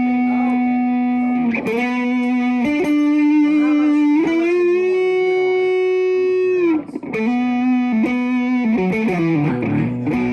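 Samick Les Paul-style electric guitar playing long held single notes, one bent up about four seconds in and held for a few seconds, then shorter notes stepping down near the end. The notes ring on with long sustain ("sustained for days").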